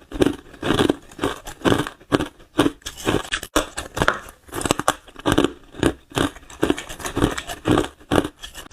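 Close-miked crunching of ice being bitten and chewed: a steady run of crisp, crackling crunches that come in clusters about once or twice a second.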